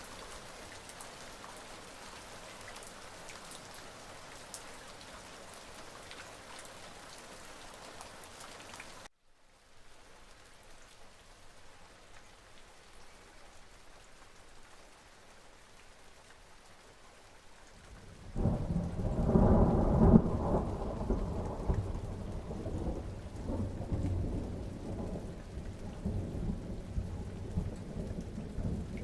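Steady rain falling. About nine seconds in it drops suddenly to a softer rain, then a little past halfway a long peal of thunder breaks in. The thunder is loudest a couple of seconds after it starts and rolls on as it slowly fades under the rain.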